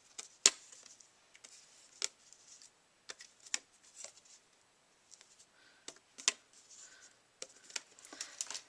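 Cardstock and craft supplies being handled on a work surface: irregular sharp taps and clicks, the loudest about half a second in, with soft paper rustling between them.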